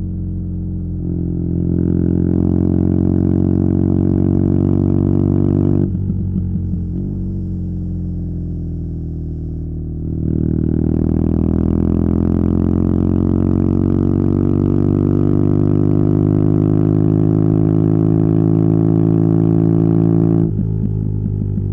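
BMW R nineT's boxer twin running through a Competition Werkes slip-on exhaust under steady throttle: a deep, even drone that rises slowly in pitch. It eases off about six seconds in, comes back on around ten seconds and climbs again until the throttle closes near the end.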